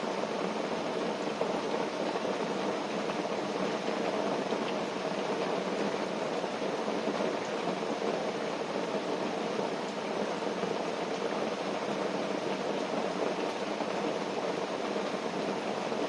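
Steady, even rushing water noise with no separate drops, crackles or knocks standing out.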